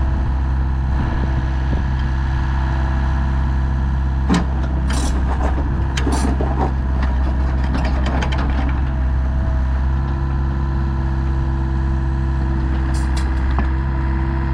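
Volvo EC55B midi excavator's diesel engine running steadily, with a series of metallic clicks and rattles about four to nine seconds in and a few more near the end.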